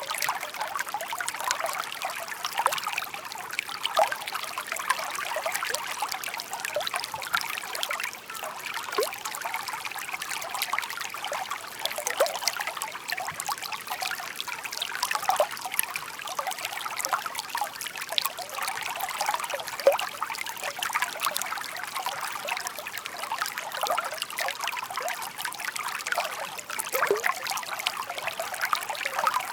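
Shallow park stream babbling: water trickling and bubbling over stones, a steady murmur made of many small splashes.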